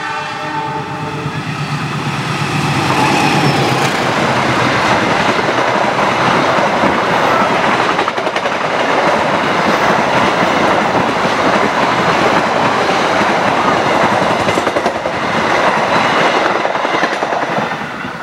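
A CC 206 diesel-electric locomotive and its passenger train pass close by at speed. A few steady tones ring over the noise for the first second or two. Then the carriages' wheels rumble and clatter on the rails in a loud, even rush that eases off near the end.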